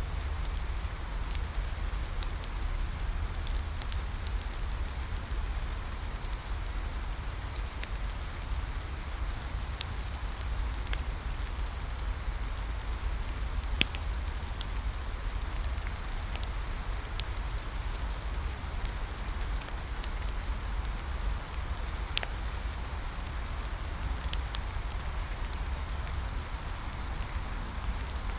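Steady rain falling, mixed with a wood bonfire giving off scattered sharp crackles and pops, the loudest about halfway through, over a steady low rumble.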